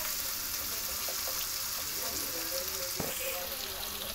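Onion and garlic paste sizzling steadily in hot oil in a nonstick pan, stirred with a wooden spatula as it is fried to light brown. A single sharp knock about three seconds in.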